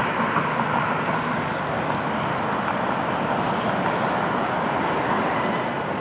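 Road traffic noise: a steady wash of passing cars, easing off slightly.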